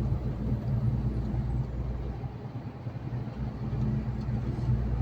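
Heavy truck driving at steady speed, heard from inside the cab: a constant low engine drone over tyre and road noise.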